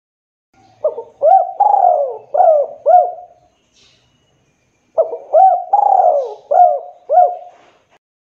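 Dove cooing: two phrases of about five hooked coos each, the first about a second in and the second about five seconds in.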